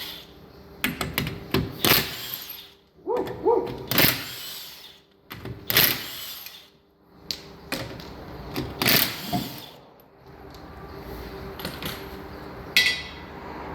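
Irregular metallic clanks and knocks of hand tools and brake parts being handled during a rear brake inspection, with a short burst of rapid clicking near the end.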